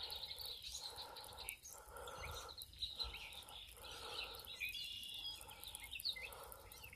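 Faint birds chirping, many short calls, over a soft mid-pitched sound that swells and fades about once a second.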